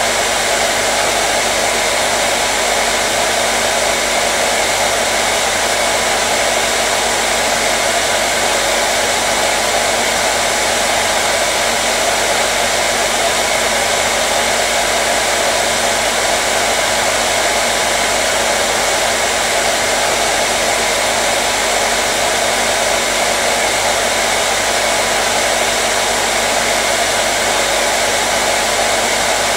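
Hair dryer running continuously, a steady even whoosh with a faint hum and no change in speed.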